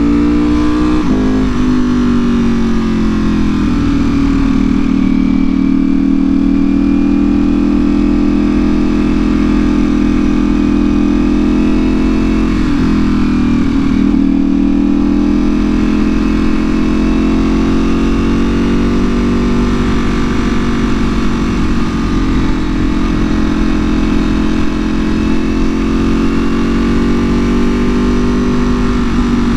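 Ducati Panigale V4R's V4 engine through an Akrapovic full exhaust, pulling at a fairly steady engine speed while riding. The pitch breaks briefly about a second in and again around thirteen seconds in.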